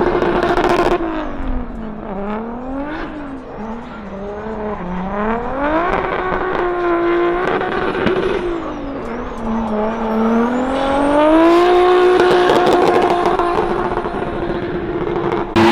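Drift car engine at high revs through a run: it holds a steady high pitch, drops away and climbs again several times, and holds high again for the last few seconds.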